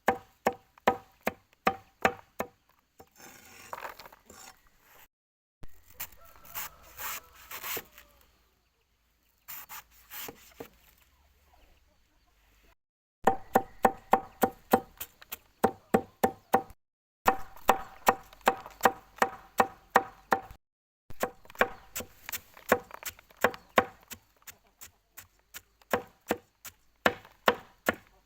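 A knife chopping on a wooden board in quick, even strokes, about three or four a second, in several runs with short pauses. In a break from the chopping there is softer rubbing and scraping.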